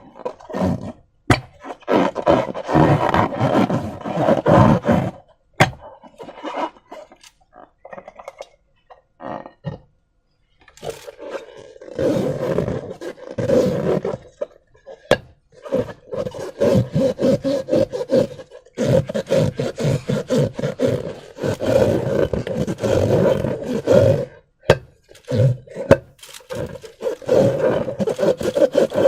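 Hands squishing and kneading slime, irregular wet squelching and crackling bursts with sharp pops of trapped air; the sounds mostly stop for a few seconds about six seconds in.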